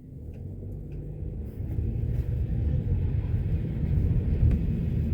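Low, steady rumble that builds up over the first two seconds and then holds.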